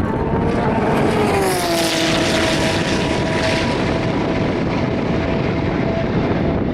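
An endurance race car passing at speed: its engine note drops in pitch as it goes by about one to two seconds in, then holds steady as the car pulls away.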